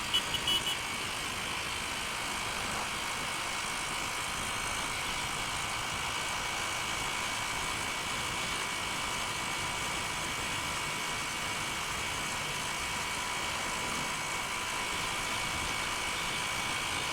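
Honda Unicorn motorcycle cruising steadily along a highway: an even engine hum with a thin steady whine over wind and road noise, unchanging in speed.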